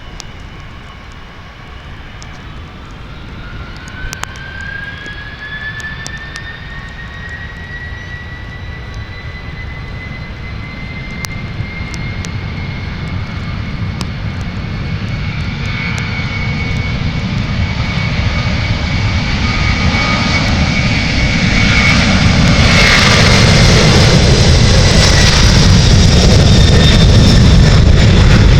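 Jet airliner's engines spooling up to takeoff power: a whine rising in pitch over the first few seconds, then holding steady, while the rumble and rush of the jets grow steadily louder, loudest near the end as the aircraft comes close.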